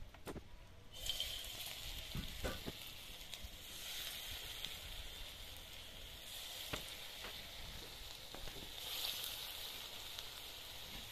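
Lumps of ground biuli (urad) dal batter being dropped by hand into hot oil in an iron kadai and deep-frying, sizzling with a few scattered pops. The sizzle starts about a second in and swells again near the end as more batter goes in.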